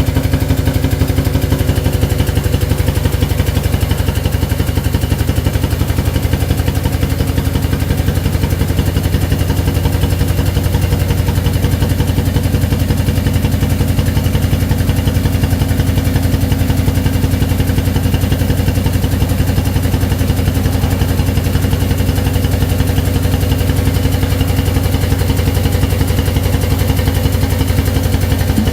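The pneumatic-hydraulic drive of an ATEX pedestrian stacker truck, powered from a compressed-air line, running steadily with a rapid, even pulsing hum as the forks raise a loaded IBC.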